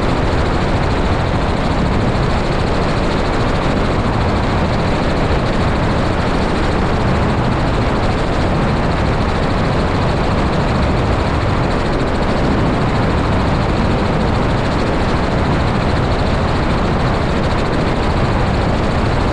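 Helicopter in flight: a steady, loud roar of engine and rotor noise.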